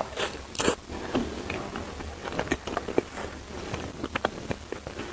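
Close-miked eating: chewing with many small mouth clicks and crunches, and a sharper bite under a second in.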